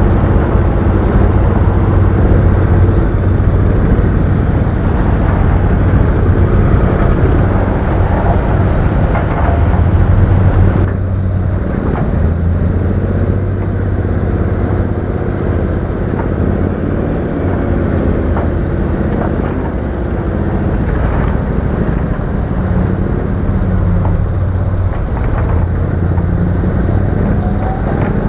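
Diesel engine of heavy earthmoving machinery running steadily with a low drone, its sound changing abruptly about eleven seconds in.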